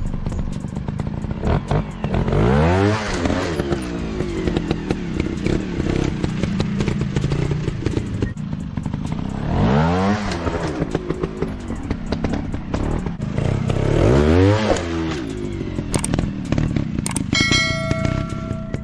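Trail dirt-bike engines revving in three quick bursts, each rising and falling in pitch, over an uneven running note with clattering and scraping throughout.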